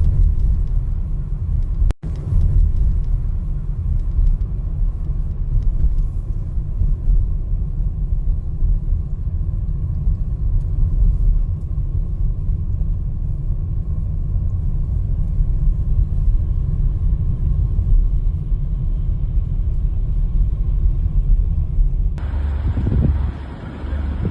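Steady low rumble of a vehicle driving on the highway. It breaks off for an instant about two seconds in and eases near the end.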